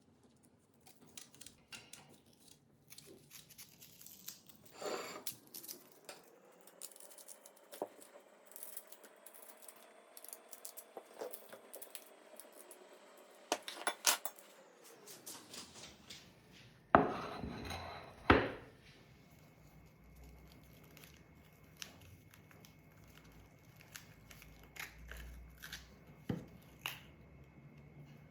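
Kitchen handling sounds: dishes and utensils clinking and knocking at irregular moments, with two louder clatters about two-thirds of the way through.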